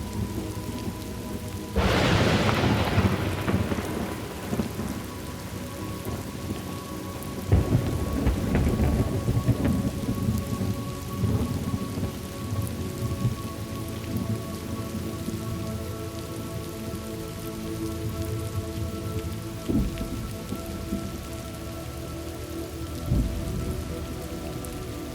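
Thunderstorm: steady rain with a sudden loud thunderclap about two seconds in that rolls away over a couple of seconds. A second long rumble of thunder comes about seven seconds in, and shorter rumbles follow near the end.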